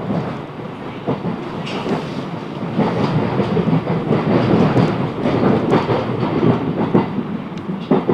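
Class 707 Desiro electric train running between stations, heard on board: a steady rumble of wheels on track with irregular clicks, getting louder about three seconds in.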